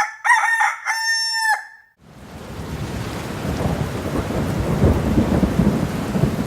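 A rooster crowing: a few short notes, then one long held note that stops sharply. About two seconds in a low, steady rumble of noise begins and grows louder.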